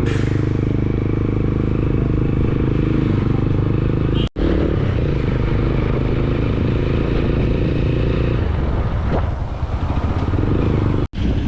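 Motorcycle engine running steadily while riding, with road and wind noise. The sound drops out sharply twice, once a little under halfway through and once near the end.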